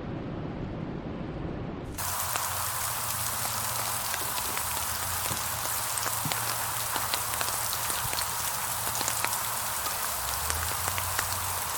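Steady rain falling on a surface, a dense even hiss with many individual drops ticking through it. About two seconds in, it cuts in abruptly in place of a duller, deeper rushing noise.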